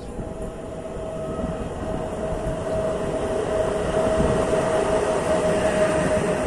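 Train running through a station and getting louder as it approaches, with a steady whining tone over the rumble.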